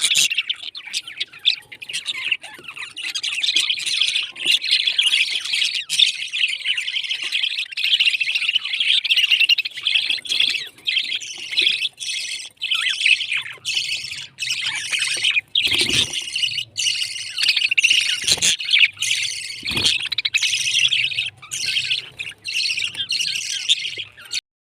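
Pet parrots chirping and squawking in a continuous, dense high chatter, with a few short knocks partway through. The sound cuts off abruptly near the end.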